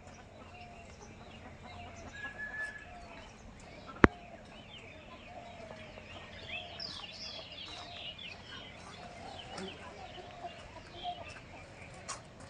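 Birds calling: a bird repeating short, low clucking notes over and over, with higher chirps from other birds, and one sharp click about four seconds in.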